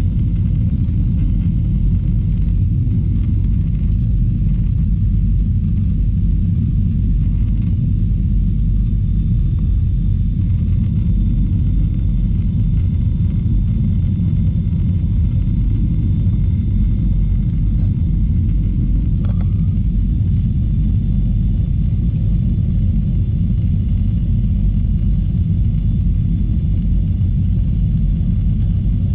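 Steady, unbroken low rumble inside the cabin of an Airbus A321 airliner: engine and airflow noise, with faint steady whining tones above it.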